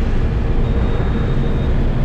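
Eicher truck's diesel engine running steadily under way, with a constant low rumble of engine and road noise.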